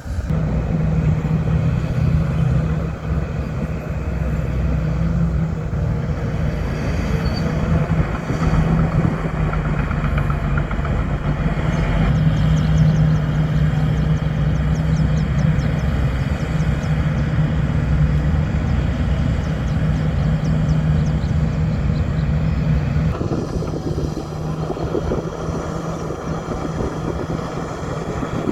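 Diesel engine of heavy earthmoving equipment running steadily under work, with a fast light ticking for several seconds around the middle; the sound shifts and thins about 23 seconds in.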